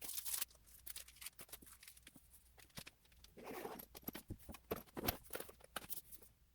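Hands handling merchandise packaging: a run of small clicks and taps, with two louder rustles of packaging material, one at the start and one about three and a half seconds in.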